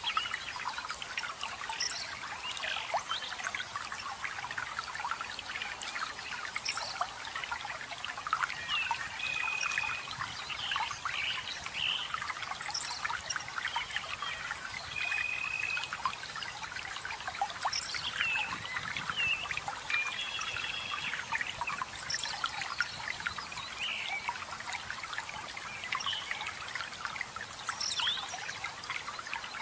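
Running water trickling and splashing steadily, with forest birds chirping over it. One bird repeats a short, level whistled note every few seconds, and others give quick high falling chirps.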